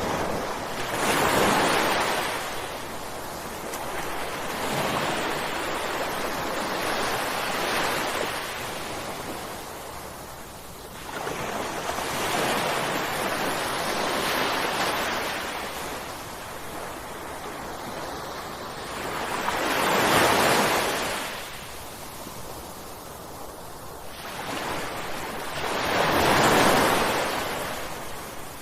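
Ocean waves breaking on a shore, each one swelling up and washing out, with about five crests building and fading; the loudest come about 20 seconds in and near the end.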